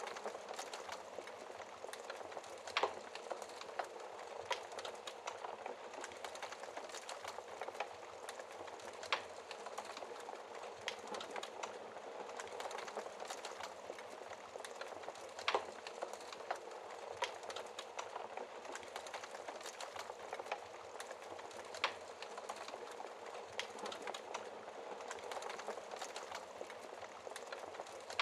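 Log fire crackling with frequent small sharp pops and a few louder snaps several seconds apart, over a steady hiss of rain.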